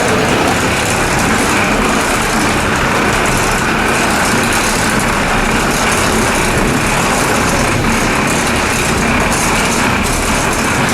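Steady, loud rushing drone of a Boeing 787-9 airliner's engines and air systems, even throughout with no pitch changes.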